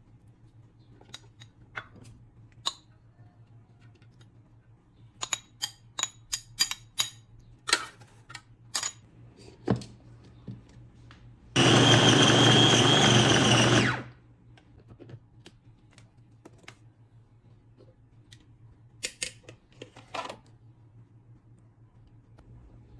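Food processor motor running in one short burst of about two and a half seconds, with a high whine, chopping and mixing the treat ingredients. Before it come a run of sharp clicks and knocks, with a few more near the end.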